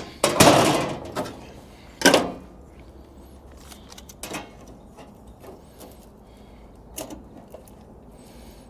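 A sheet of metal and tools being handled on a workbench: a loud scraping slide about half a second in, a shorter knock about two seconds in, then light scattered taps and clicks.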